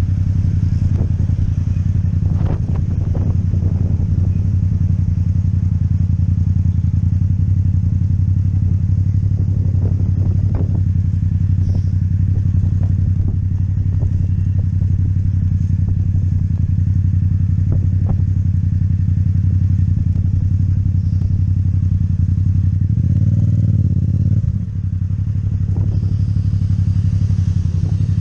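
Yamaha MT-07's parallel-twin engine with Akrapovic exhaust running steadily while riding, with scattered short knocks from the road. About 23 seconds in the revs climb, then briefly dip and pick up again.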